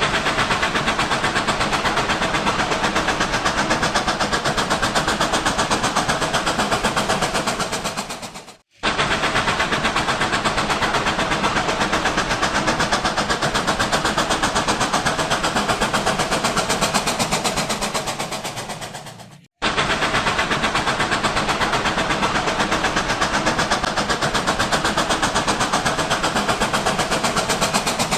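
Battery-powered toy train running on its track: a steady motor whir with a rapid fine clicking. It fades and cuts out briefly twice, about nine and twenty seconds in.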